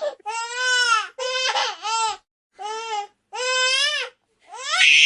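A baby vocalizing in a series of high-pitched drawn-out calls, the last rising into a squeal near the end.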